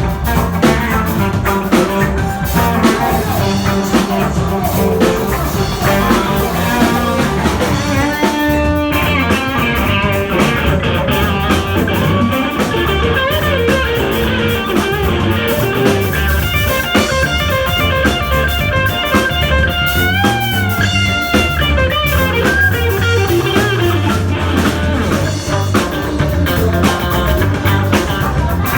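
Band music with drum kit, bass and guitar, typical of Mexican reggae-ska; a high lead melody line enters about nine seconds in and bends in pitch around twenty seconds.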